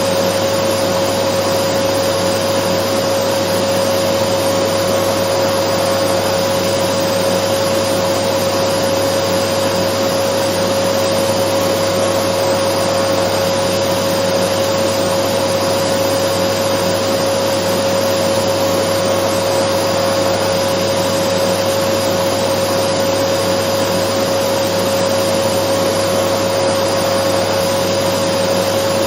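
Dyson vacuum cleaner running steadily: a constant whine held on one pitch over an even rushing hiss, with no change in speed.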